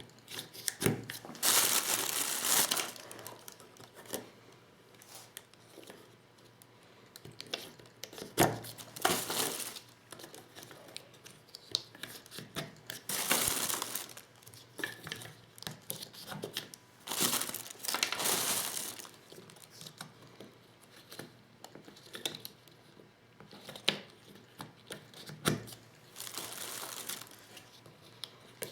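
Shotgun shells and Lee Loader hand tools being worked during reloading: repeated bursts of rustling and crinkling, each a second or two long, with sharp clicks and small knocks between them.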